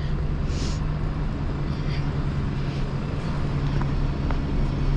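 A bus's diesel engine running with a steady low hum.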